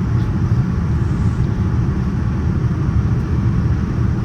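Steady low rumble of airliner cabin noise inside a Boeing 787-9: engine and airflow noise heard from a passenger seat.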